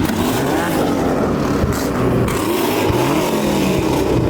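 Car engine revved hard over and over, its pitch climbing and falling in repeated pulls.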